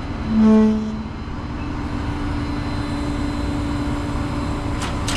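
A truck engine runs steadily with a constant low hum. A short, loud pitched tone like a beep sounds about half a second in, and a few knocks and clicks come near the end.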